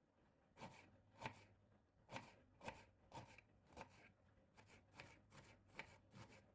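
A knife chopping on a cutting board, soft irregular strokes a little under two a second.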